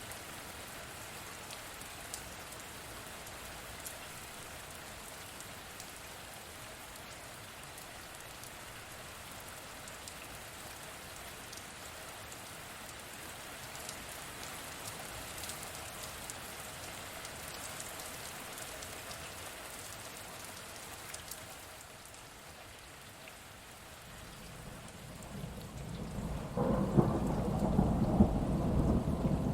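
Steady rain falling, with scattered drops ticking. About 25 seconds in, a thunder rumble builds and becomes the loudest sound.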